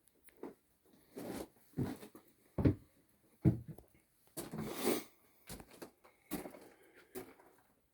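Footsteps of a person walking, about one step every second, with a longer scuff partway through.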